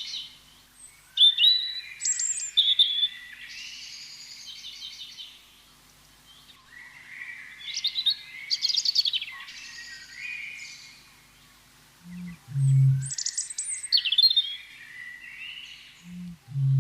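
Songbirds singing in repeated chirping phrases. Twice near the end comes a low two-note call: a short note, then a longer, deeper one.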